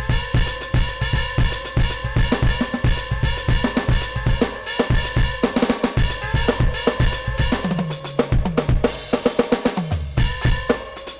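NUX DM-8 electronic drum kit played as a steady groove of bass drum, snare and hi-hat; about eight seconds in, a fill runs down the toms into a cymbal crash before the groove returns.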